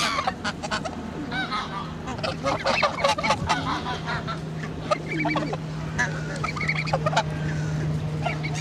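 A flock of geese honking, many short overlapping calls throughout. A steady low hum comes in about three and a half seconds in.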